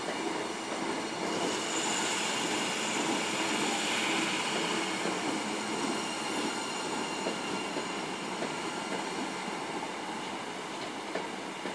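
Passenger train running through a station: a steady rumble of wheels on rail, with a faint high-pitched squeal that builds about a second and a half in and eases off after about five seconds.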